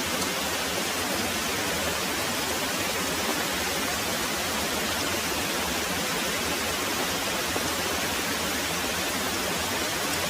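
Very heavy rain pouring steadily, a dense, even hiss.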